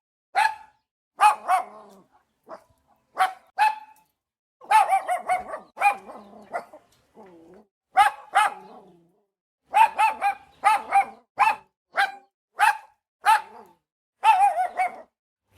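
Dog barking over and over in short, sharp barks, single or in quick pairs, with a couple of brief pauses.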